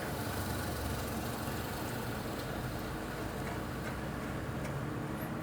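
Steady low hum and hiss of background noise, with no distinct tool strikes.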